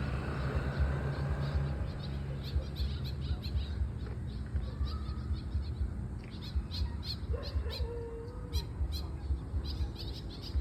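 Birds chirping in many short, quick high notes, with one lower drawn-out honk-like call about three-quarters of the way through, over a steady low rumble.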